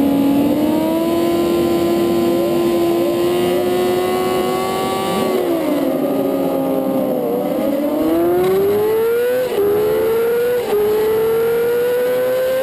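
Onboard sound of a supersport race motorcycle's engine held at raised revs on the start grid, sagging as the clutch goes out about five seconds in, then revving up hard through first with two quick upshifts near the end. Other bikes' engines are running around it.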